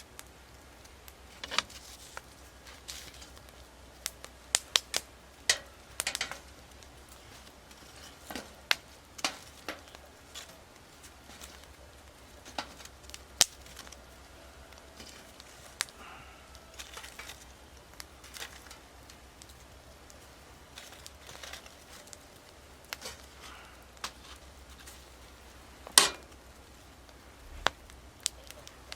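Wood fire crackling in a Snow Peak steel fire stand: irregular sharp pops and snaps with quiet between them, one louder pop near the end.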